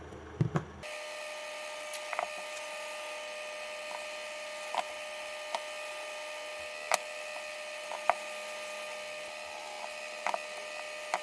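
Hot air gun running, a steady fan hum with a constant whine, switched on about a second in, with scattered small clicks and taps of handling over it.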